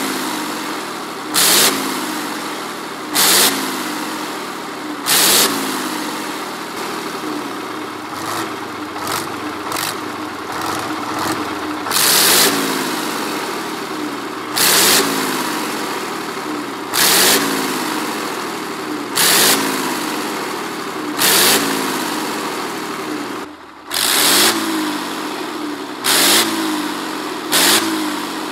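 Tatra engine revved over and over, about every two seconds: each sudden loud blip of throttle falls away as the engine speed drops back, with a brief dip in sound a little before the end.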